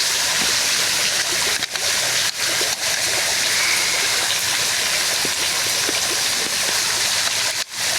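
A small waterfall splashing and rushing steadily over rocks. The sound drops out briefly a few times, most deeply near the end.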